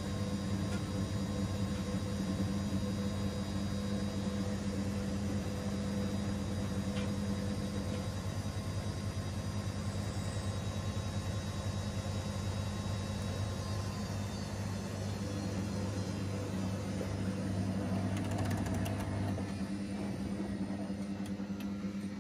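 Washing machine running with a steady motor hum and a faint high-pitched whine. The lowest part of the hum drops away near the end.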